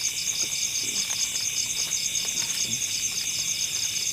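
Steady chorus of forest insects, a fast, evenly pulsing high-pitched trill that goes on without a break, with a few faint knocks underneath.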